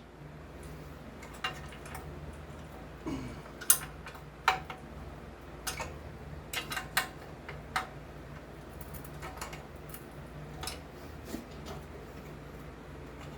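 Irregular sharp clicks and taps of hand tools against the metal parts of a small engine while a part is being unbolted, over a steady low hum.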